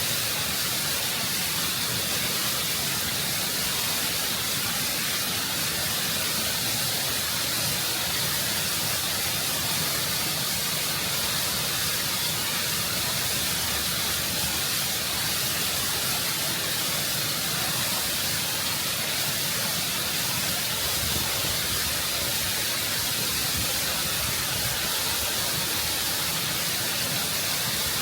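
Waterfall water rushing and cascading over rock, heard up close as a steady, full hiss that doesn't change.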